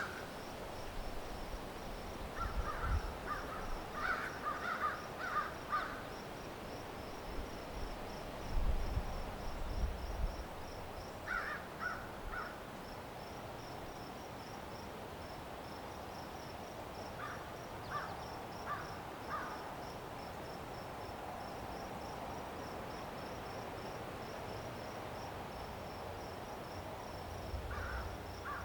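Crows cawing in several short runs of calls over a cricket chirping steadily in a fast, even pulse. There are also a few soft low rumbles.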